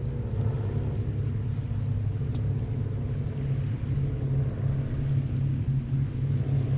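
Quiet ocean surf with the tide out: small waves breaking as a steady low rumble with a soft wash above it. Through it an insect chirps faintly and regularly, a few times a second.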